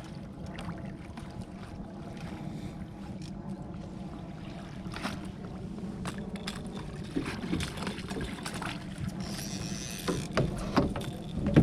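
Steady low hum aboard a fishing boat, with scattered knocks and clatter that grow busier toward the end.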